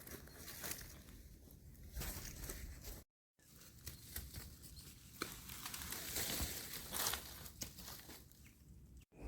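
Rustling and tearing noises with scattered light clicks, broken by a brief dead gap about three seconds in.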